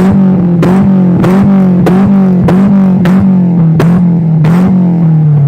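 Peugeot 206 GTI four-cylinder engine held at steady high revs through a full stainless exhaust. Sharp backfire cracks from the exhaust come about twice a second, and the revs begin to drop near the end.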